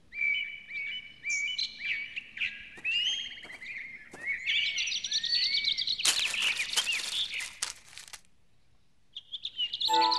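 Small birds chirping and twittering in quick, overlapping calls, with a dense buzzy trill from about six to eight seconds in. It breaks off to near quiet about two seconds before the end.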